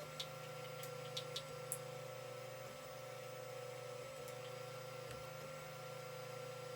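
Creality CR-10 3D printer running a print: a steady whine from its stepper motors over a low fan hum, with a few sharp ticks in the first two seconds.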